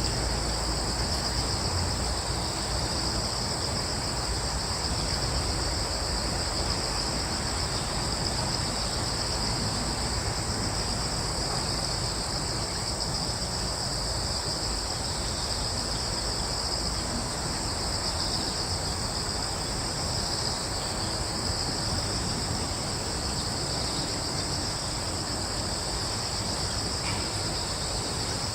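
Steady chorus of crickets trilling without a break, in two high bands, over a low steady rumble.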